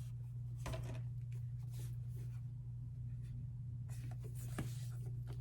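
A few short rustles and scrapes of paper and cardboard as an album's packaging and inserts are handled, over a steady low hum.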